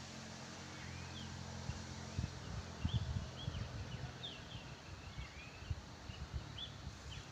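Wild birds chirping, with many short high calls sliding up or down and scattered throughout. From about two seconds in there are irregular low thumps, the loudest sounds here.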